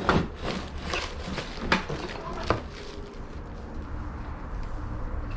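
Handling noises from unpacking a metal-and-plastic tube bird feeder: a handful of sharp knocks and clunks in the first two and a half seconds, then quieter handling over a steady low hum.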